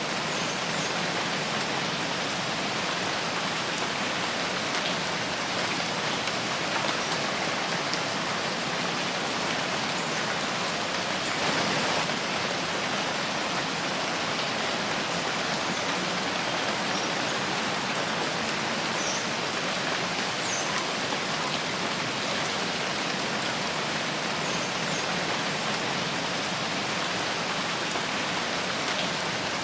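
Steady rain falling in a forest, a dense even patter of drops on leaves and ground, swelling briefly about twelve seconds in.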